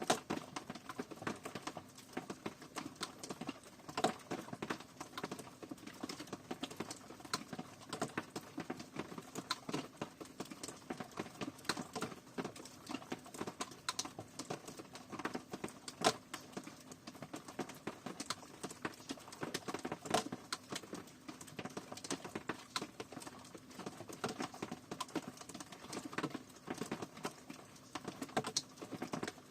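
Rain falling, its drops landing as dense, irregular taps over a steady hiss, with now and then a single louder drop.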